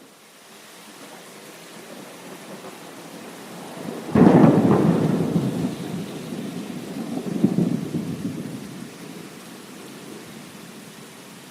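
Steady rain with a sudden thunderclap about four seconds in, rumbling on, swelling again a few seconds later and dying away.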